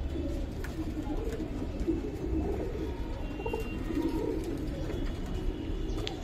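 Domestic pigeons cooing, several overlapping low, wavering coos throughout.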